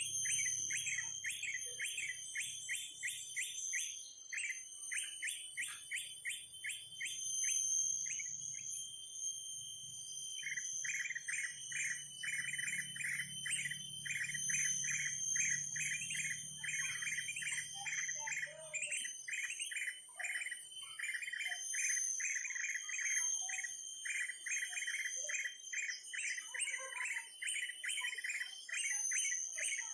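Bird chirping in rapid repeated series of short notes, breaking off for a couple of seconds a third of the way through, over a steady high-pitched whine.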